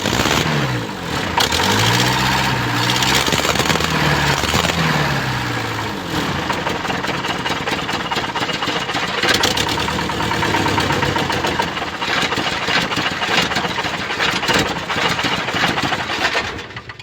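Mitsubishi Canter's 4D32 four-cylinder diesel engine running just after starting. It is revved up and down several times, then runs steadily, and shuts off near the end.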